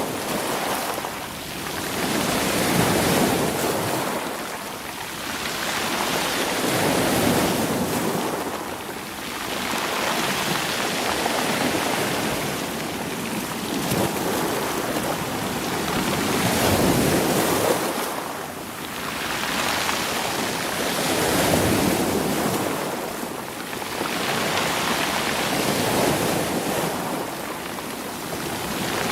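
Sea waves washing in and out over rolling beach stones, the surge swelling and ebbing about every four to five seconds.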